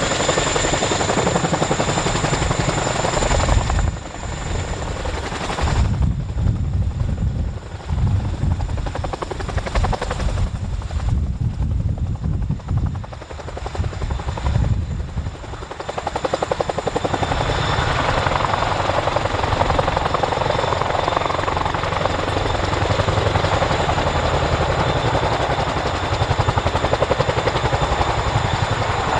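CH-47 Chinook tandem-rotor helicopter running close by, its rotors giving a rapid, steady beat over turbine whine. From about 4 to 16 seconds the sound turns duller and deeper, with dips in loudness, before the fuller rushing noise returns.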